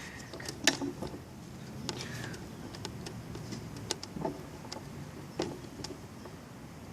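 Scattered light knocks and taps, the sharpest less than a second in and a few more spread out after, from a person crawling and scooting across a structure they are climbing.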